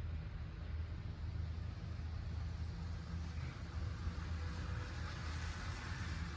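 Rural evening outdoor ambience: a steady low rumble under a high insect trill that pulses about twice a second. A soft hiss swells and fades in the middle.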